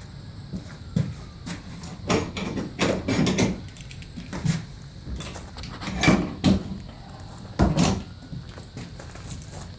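Shed door being handled: a series of irregular knocks and rattles, the loudest bunched about two to three seconds in, around six seconds, and near eight seconds.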